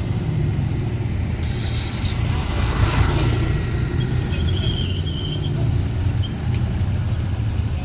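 Off-road vehicle engines running with a steady low rumble. A brief high-pitched squeal sounds about five seconds in.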